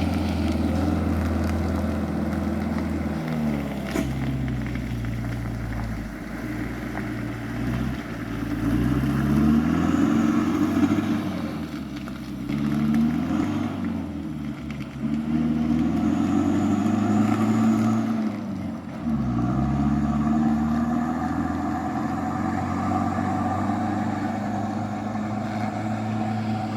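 Off-road dump truck's engine pulling under load. Its pitch rises again and again and drops back between the rises.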